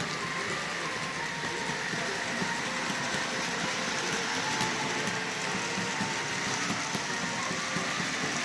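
HO scale Life-Like GP30 model diesel locomotives running along the track, a steady whir of small motors and gears with the wheels clicking over the rails.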